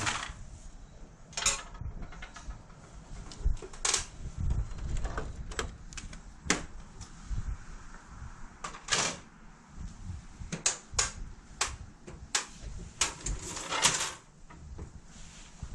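Irregular clicks and knocks of hard objects being handled, with a few short, louder swishes about a second in, near the middle and near the end.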